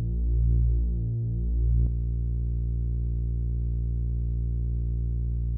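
Lefty's Sound Lab King Drone analog synthesizer holding a dark, low drone made of several oscillators. The tones beat against each other in a slow pulse, then about two seconds in the drone changes abruptly to a steady, even tone.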